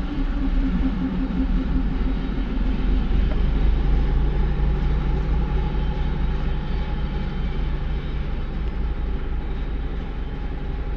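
A train running past on the line, a continuous low rumble, with a steady low hum that sets in about four seconds in.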